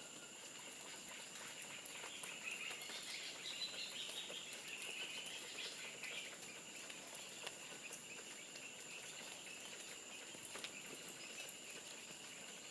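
Forest ambience: a steady high-pitched insect drone, with a patch of faint bird calls from about two to six seconds in and scattered light ticks.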